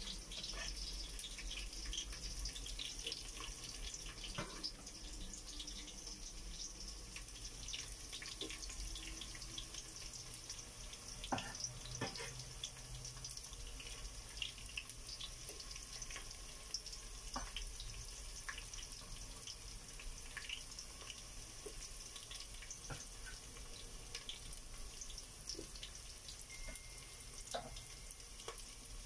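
Chopped onion and garlic sautéing in hot oil in a pot: a steady sizzling hiss with scattered small crackles.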